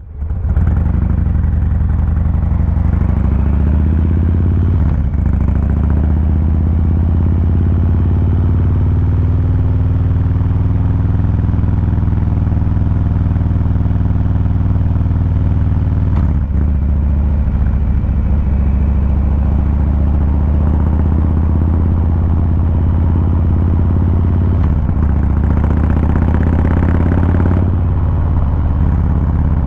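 2023 Harley-Davidson Fat Boy 114's Milwaukee-Eight 114 V-twin engine and exhaust running with the bike under way, a deep, steady low sound. It dips briefly in pitch a few times and rises in pitch with some acceleration near the end.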